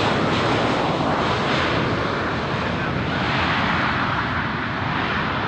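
Jet aircraft engines heard close by as a plane passes: a loud, steady noise that eases slightly toward the end.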